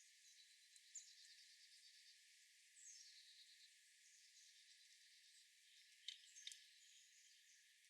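Faint outdoor birdsong: songbirds singing short falling trills over a light hiss, with two sharp clicks about six seconds in.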